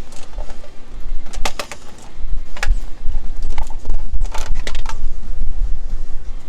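Irregular sharp metal clicks and clanks from tools working on the truck's fuel-tank fasteners, some in short clusters, over a steady low rumble.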